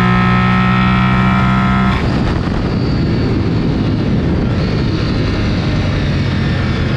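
Sport motorcycle at speed on a race track. A steady, high engine note for about two seconds changes suddenly to a rough rushing of engine and wind.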